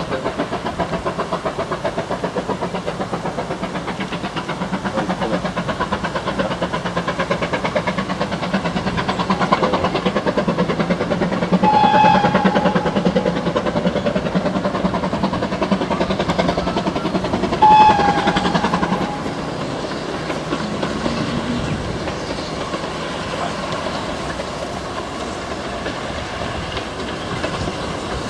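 Train running on the rails with a steady rhythmic clatter, and two short whistle toots about six seconds apart; the sound drops in level after the second toot.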